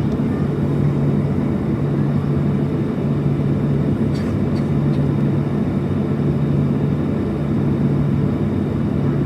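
Steady cabin drone inside a Boeing 737-700 on the ground, a constant low hum under an even rushing noise. A few faint clicks come about four to five seconds in.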